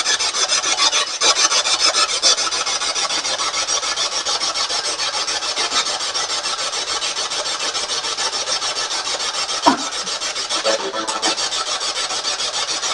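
Spirit box radio scanning rapidly through stations: rasping static chopped into quick, even pulses several times a second, with a brief blip of radio sound near the end.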